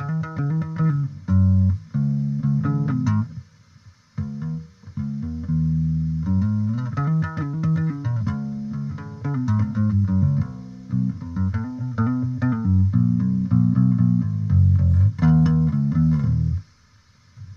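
Electric bass played through a bass amp cabinet: phrases of plucked notes with short breaks about three and a half and four and a half seconds in. The playing stops abruptly about a second before the end.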